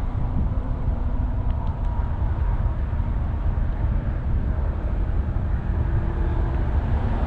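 A vehicle running, a steady low rumble.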